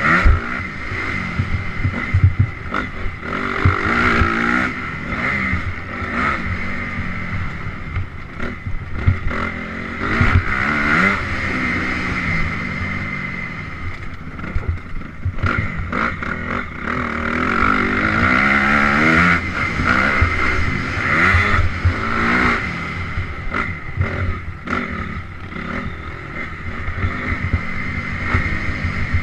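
Honda CRF250R four-stroke single-cylinder dirt bike engine ridden hard, its revs rising and falling again and again through the gears, with frequent short knocks throughout.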